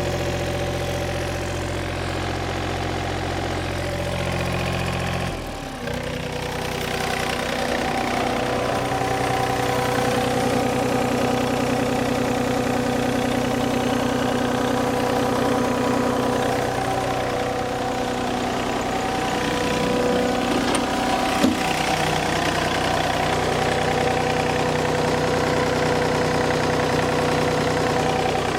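Yanmar 3TNE84 three-cylinder diesel engine running steadily. Its note changes abruptly about five and a half seconds in, then settles again. A single sharp click comes about two-thirds of the way through.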